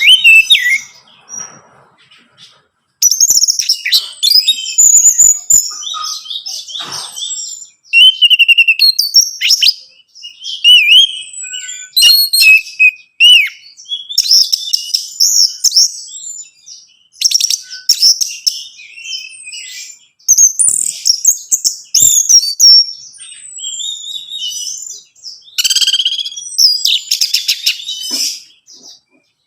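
Orange-headed thrush singing: bouts of fast, varied high whistled phrases and trills, broken by short pauses, with a brief lull a couple of seconds in.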